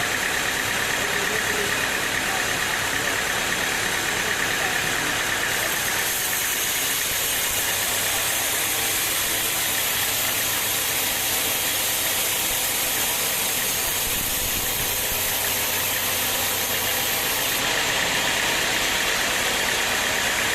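Sawmill machinery running steadily: a constant mechanical drone with hiss, not changing in loudness.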